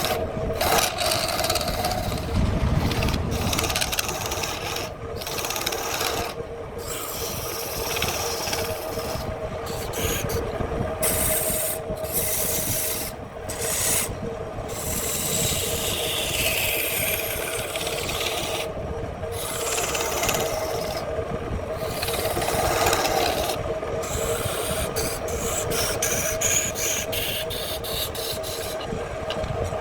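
Handmade wood lathe running with its motor humming steadily while a tool or abrasive scrapes and rasps against the spinning wood. The sound is broken by many short, abrupt gaps.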